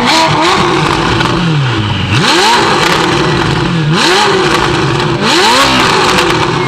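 Ferrari F8 Tributo twin-turbo V8 through a full catless Ryft exhaust, revving hard again and again: the pitch climbs steeply and then falls back in steps, about three times.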